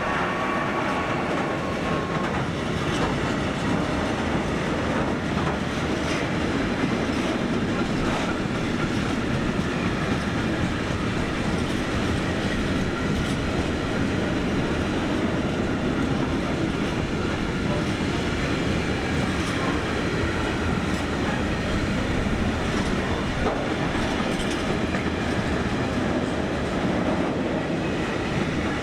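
Freight train wagons rolling steadily past, wheels clattering over rail joints and points, with a faint wheel squeal that dies away in the first couple of seconds.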